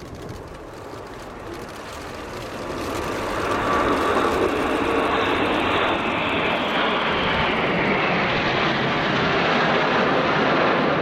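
Jet noise from a large formation of Red Arrows BAE Hawk T1 and Patrouille de France Alpha Jet trainers flying past together. It builds over the first few seconds as they approach, then stays loud and steady.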